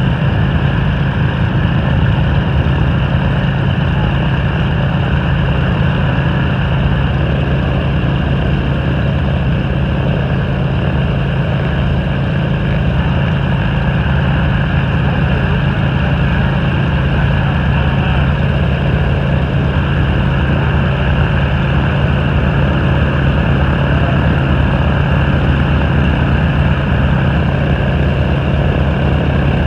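UH-60 Black Hawk helicopters running, loud and steady: rotor beat and twin turboshaft engines with a strong low hum and no change in pitch.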